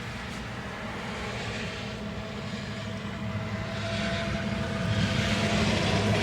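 Deere 331G compact track loader's turbocharged four-cylinder Yanmar diesel running steadily, growing louder about four to five seconds in.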